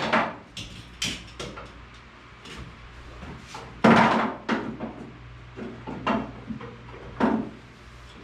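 Irregular knocks and clatters of hard objects being moved and set down while someone rummages through stored gear looking for ratchet straps.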